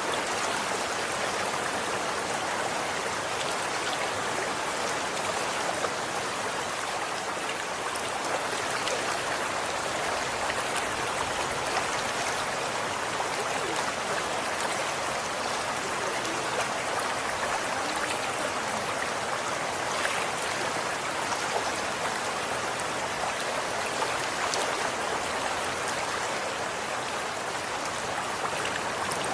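Running water flowing steadily, an even rushing noise with faint scattered splashes.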